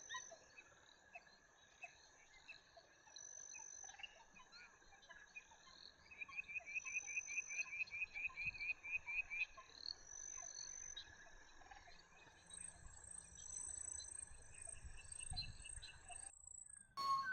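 A chorus of frogs and insects calling: steady high trills throughout, with a rapid run of pulsed calls, about five a second, in the middle.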